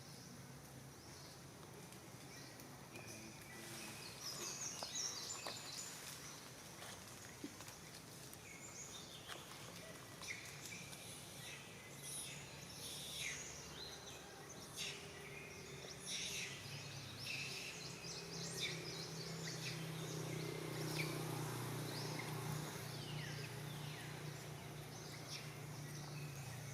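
Outdoor background noise with many short, high-pitched chirping animal calls scattered throughout. A low steady hum comes in about two-thirds of the way through.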